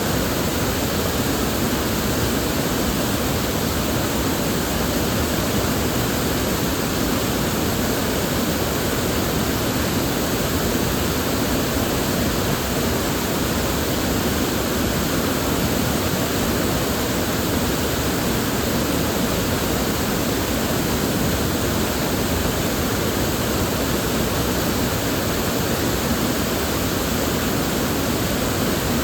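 River water flowing steadily: an even rushing hiss that holds without breaks or changes.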